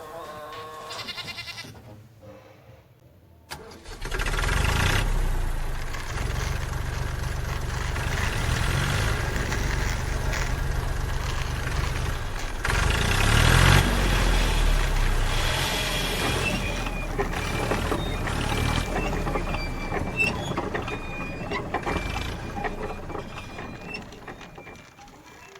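Tractor engine starting suddenly about four seconds in and running with a steady low rumble, revving up and back down twice, then fading away near the end.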